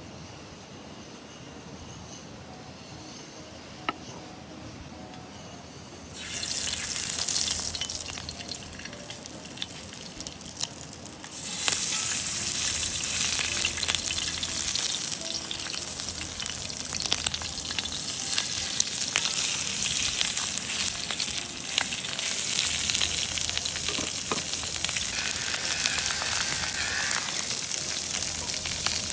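Food frying in a hot pan. A faint sizzle jumps loud about six seconds in for a couple of seconds, dies down, then rises again just before halfway and keeps sizzling steadily with a few sharp clicks and pops.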